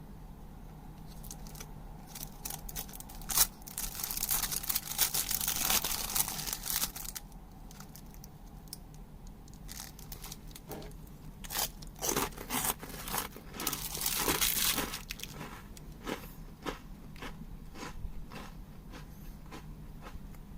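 Plastic snack wrapper crinkling and tearing open, with crisp crunching of Happy Turn rice crackers. The sounds come in two spells of dense crackle, the second made of sharper, separate snaps.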